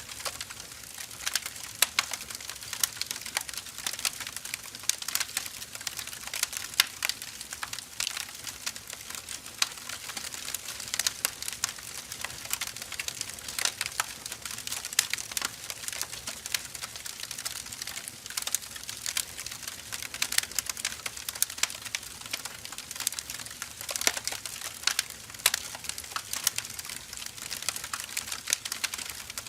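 Firewood burning with a steady hiss and frequent, irregular crackles and pops.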